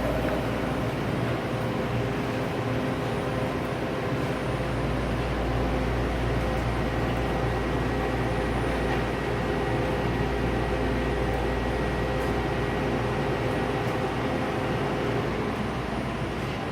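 BART train running at speed: a steady low rumble and rushing noise, with a faint steady whine running through it.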